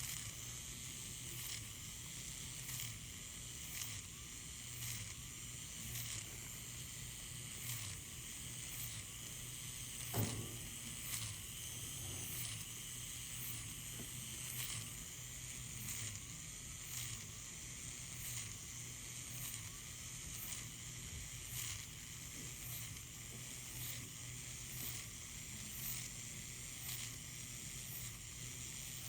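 Motorized FUE punch device running during graft extraction: a steady faint whir and hiss with short ticks a little over once a second as each graft is scored, and one louder knock about ten seconds in.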